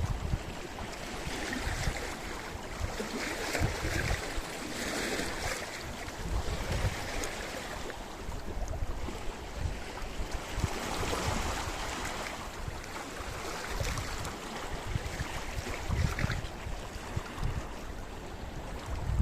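Sea waves washing against a rocky shore, the surf swelling and falling back several times, with gusts of wind rumbling on the microphone.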